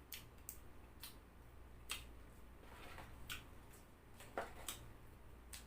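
Quiet, irregular crunching and mouth clicks of someone chewing crispy fried chicken wings close to the microphone.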